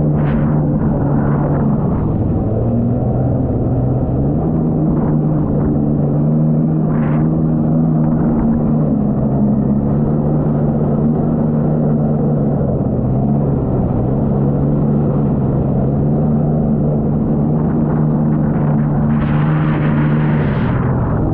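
Jet ski engine running under way, a steady drone whose pitch shifts slightly up and down with the throttle, over the hiss of water and wind.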